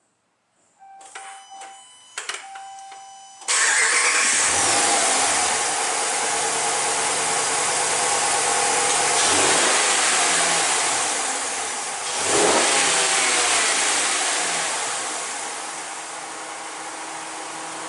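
A 2013 Ram 1500's 5.7-litre Hemi V8 on its stock intake and exhaust, started about three and a half seconds in after a few seconds of electronic chimes. It runs at a fast idle, is revved briefly twice, and settles to a lower, quieter idle near the end.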